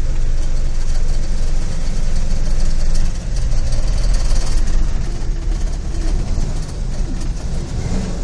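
GAZ-66 truck's rebuilt V8 petrol engine running steadily, with the rush of its fan making up much of the sound.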